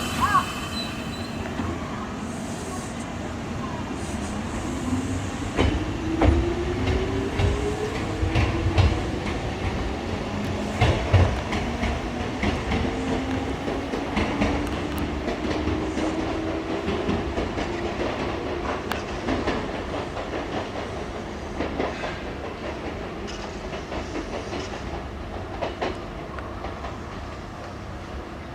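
Electric train pulling away, its traction motor whine rising slowly in pitch as it gathers speed, with wheels clacking over rail joints. The sound fades toward the end.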